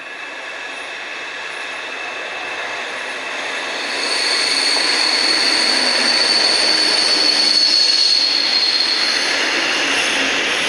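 A train running into the station, growing louder, with a steady high metallic squeal from its wheels or brakes from about four seconds in until about nine seconds.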